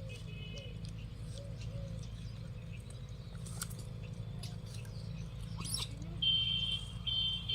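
Steady low outdoor hum with scattered faint clicks. Near the end come three short, high chirping animal calls in quick succession, the loudest sound here.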